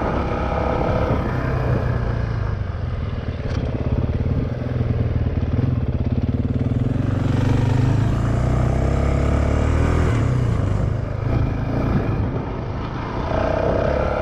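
Honda CRF450X dirt bike's single-cylinder four-stroke engine running under throttle while ridden, its pitch rising and falling with the throttle, easing off about ten seconds in.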